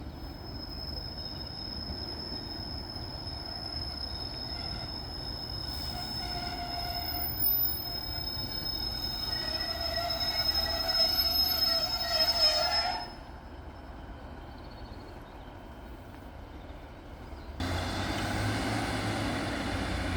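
Northern Class 156 diesel multiple unit running on the rails with a long high-pitched wheel squeal over a low rumble, growing louder until it cuts off abruptly about two-thirds through. A few seconds later a louder, steady diesel engine rumble starts suddenly near the end.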